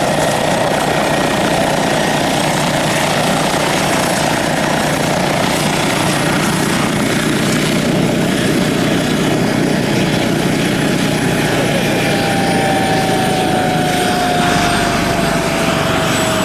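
Radio-controlled scale model helicopter flying: a steady rotor and motor sound, with a whine that slowly falls in pitch over the last few seconds.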